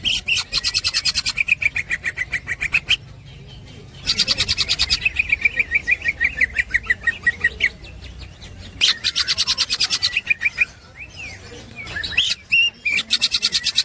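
Cucak ijo (green leafbird) singing its rapid chattering 'ngekek' song: bouts of about ten sharp, evenly repeated notes a second, each lasting a few seconds, separated by short pauses with softer warbled notes.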